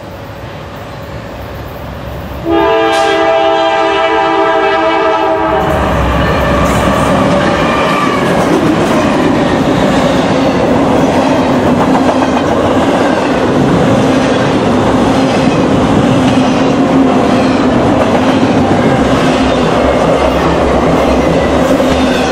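Train sound effects: a train horn sounds for about three seconds, starting abruptly, then the steady rumble and clickety-clack of a running train carries on.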